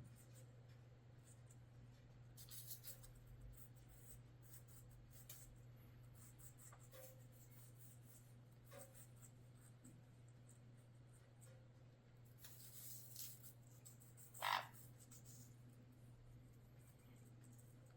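Parrots nibbling apple: faint crunching and scratchy bites over a low hum, with one short, louder chirp about two-thirds of the way through.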